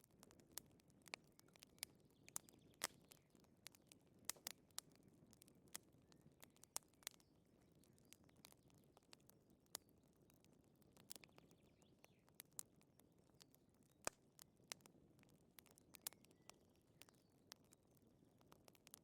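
Wood fire crackling: irregular sharp pops and snaps, several a second at times, over a soft low hiss of the burning.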